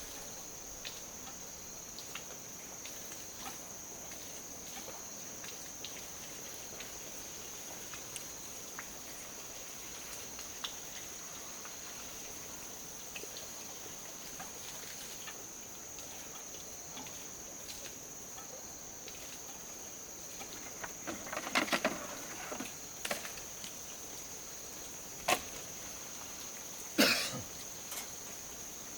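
Insects singing in a steady high-pitched drone, with scattered faint ticks. Near the end come a brief clatter and then two sharp knocks, the loudest sounds.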